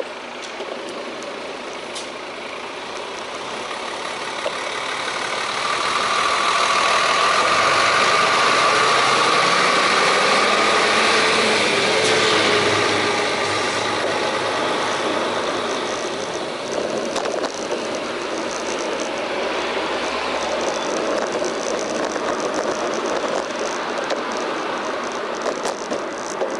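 Road traffic heard from a bicycle: a motor vehicle's engine and tyres swell up, run loudest for several seconds and then ease off, over steady road and wind noise.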